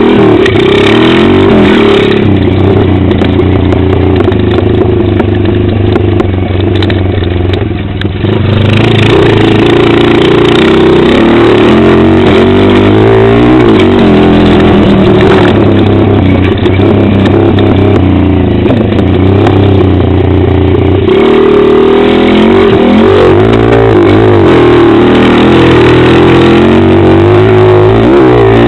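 Pit bike engine heard from the rider's helmet camera, running hard and continuously, its pitch rising and falling again and again as the throttle is opened and closed, with a brief drop around eight seconds in.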